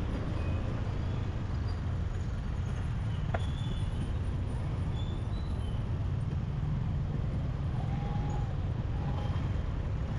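Motorbike riding through city traffic: a steady low rumble from the engine and the road, with a single sharp click about three seconds in.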